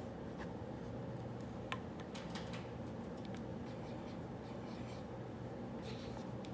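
Handwriting on paper: short, light scratching strokes coming in irregular bursts, over a steady low hum of room noise.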